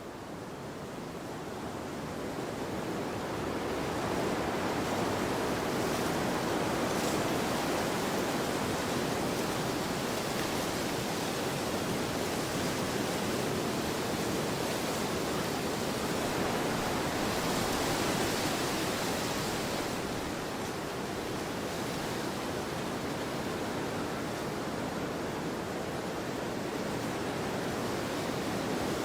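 Wind blowing steadily across an open field, a gust building over the first few seconds and swelling again a little past halfway.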